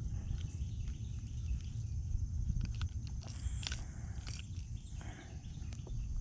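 Steady low wind rumble on the microphone, with scattered small clicks and knocks of handling in the kayak, a cluster of sharper ones about three and a half seconds in.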